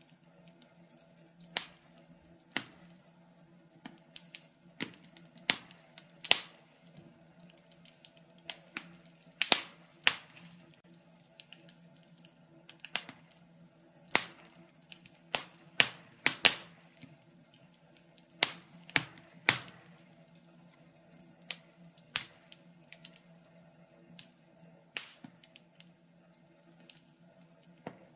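Wood fire crackling: irregular sharp pops and snaps, one to three a second, over a faint low steady hum.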